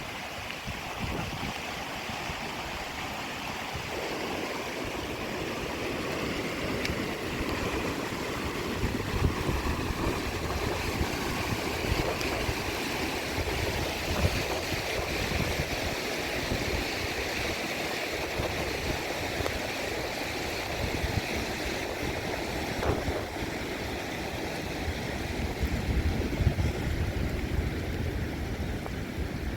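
Flowing water rushing steadily, with uneven gusts of wind buffeting the microphone.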